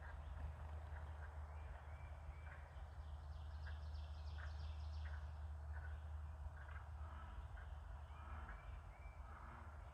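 Birds calling: scattered short chirps and a rapid rattling call from about three and a half to five seconds in, over a steady low rumble.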